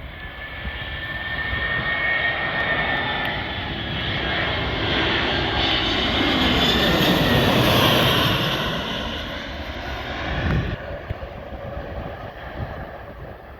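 Airliner on landing approach passing low overhead: its engine noise builds to a peak about halfway through, the whine bending down in pitch as it goes over, then falls away sharply.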